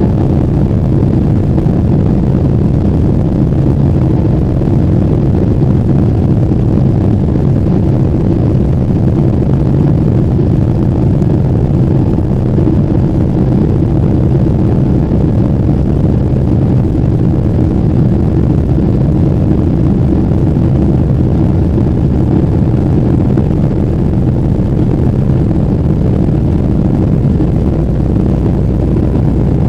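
Steady low rumble of a Boeing 777-300ER airliner's cabin noise, even throughout with no rise or fall.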